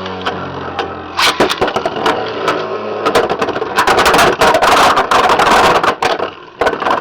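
Beyblade X spinning tops (Yell Kong and Impact Drake) spinning in a plastic stadium with a steady whirring hum. From about three seconds in comes a fast clatter of clicks and knocks as they collide, and it thins out near the end.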